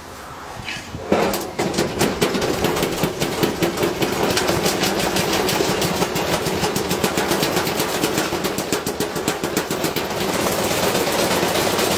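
Washing machine spinning with a heavy iron object loose in its drum, which hammers against the drum and casing in a rapid, continuous clatter over the running motor. It starts about a second in.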